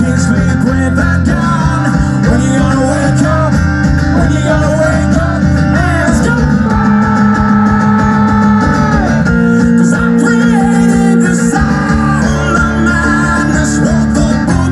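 Live rock band music: guitars and bass playing a passage of the song, with some sung notes held over it.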